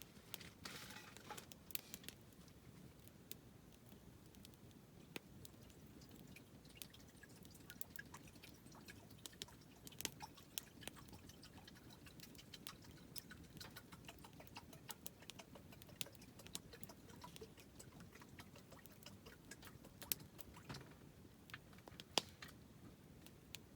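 Campfire with burning wood crackling: faint, irregular sharp pops and ticks over a low steady hiss, with a louder pop about ten seconds in and another near the end.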